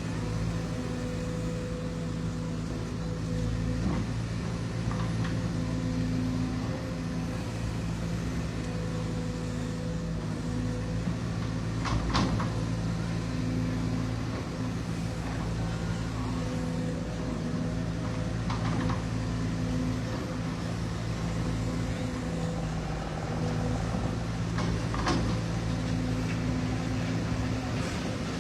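Heavy diesel engine of construction machinery running steadily with a low, even hum, with a few sharp metallic knocks over it, the loudest about halfway through.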